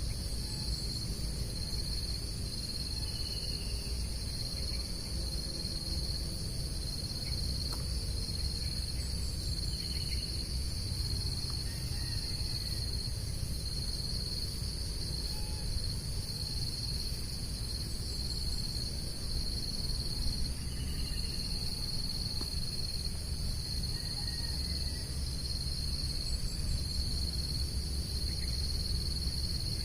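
Outdoor chorus of crickets and other insects: a steady high trill that pulses evenly, with a second, higher band of insect noise above it. A low steady rumble runs underneath, and a few faint short chirps come and go.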